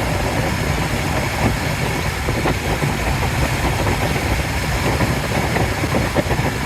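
Steady rumble of a vehicle driving, heard from inside the cabin, with scattered small rattles and knocks.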